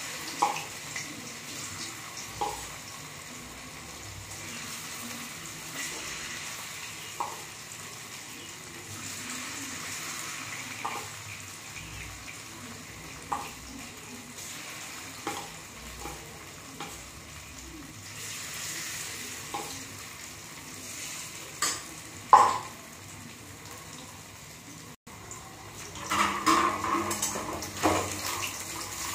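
Paneer cubes frying in hot oil in a steel kadai over a high flame: a steady sizzle. Sharp metal clinks come every few seconds as more cubes are spooned in from a steel bowl, and near the end a spatula scrapes and clatters as it turns them.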